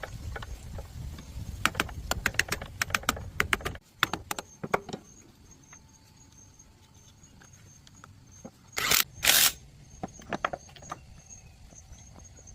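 Hand tools and small metal engine parts clicking and clinking as they are handled, over a low rumble that stops abruptly about four seconds in. Two short hissing bursts follow near the end, with a few more clicks.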